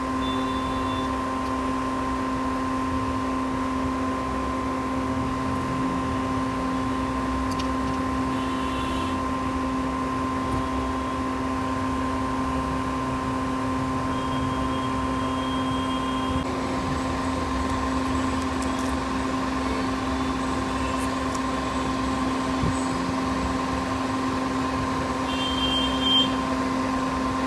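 A steady machine hum holding one fixed pitch, with a few light clicks and taps over it.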